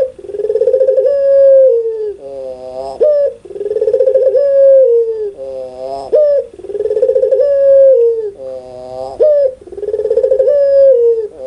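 Barbary dove (puter pelung) giving its loud laughing coo about four times: each call is a long rolling coo followed by a short, sharper note.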